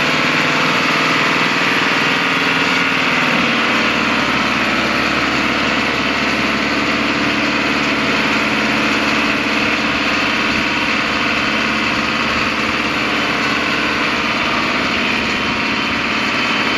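An 11-ton truck's engine running steadily while the truck drives through mud. The engine note shifts about three and a half seconds in.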